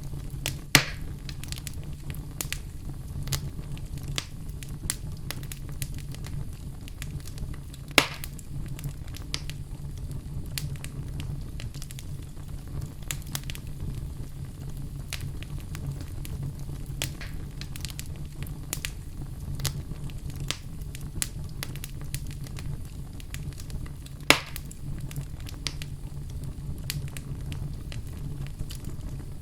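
Wood fire crackling in a fireplace: a steady low rumble of the flames under frequent small crackles, with three sharp, louder pops, about a second in, about eight seconds in and about twenty-four seconds in.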